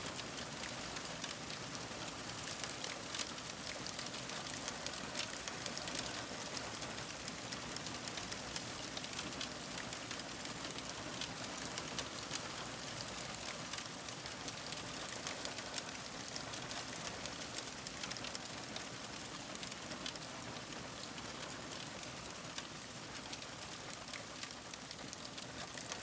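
Wood fire crackling: a steady hiss with frequent small sharp pops and snaps.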